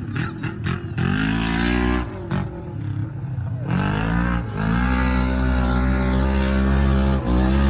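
Race truck engines revving hard, the pitch climbing, dropping back and climbing again several times, then held at high revs through the second half with a brief drop near the end.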